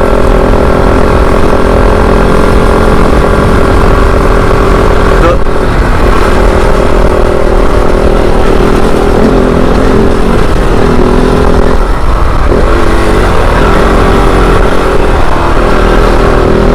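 Motorcycle engine running under way on a trail ride, its note steady with shifts in pitch about five seconds in and again around twelve seconds, over heavy wind rumble on the microphone.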